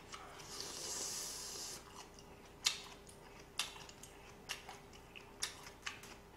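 Close-miked chewing with the mouth closed: soft wet mouth clicks about once a second, after a short breathy hiss in the first two seconds.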